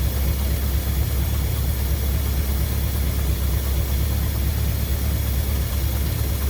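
1963 Mercury's engine idling steadily on a freshly rebuilt Motorcraft 2100 two-barrel carburetor: a smooth, even idle.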